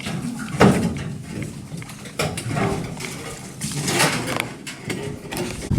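Rocks knocking and scraping against each other as stones are pried loose and shifted by hand, in a few separate clacks about a second apart.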